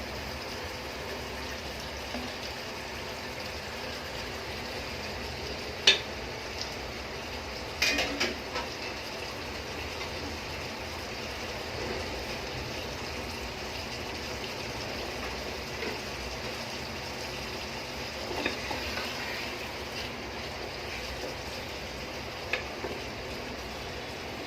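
Chicken frying in a pot of onion and spice masala while it is browned (kosha stage): a steady sizzle, with a few sharp clicks scattered through.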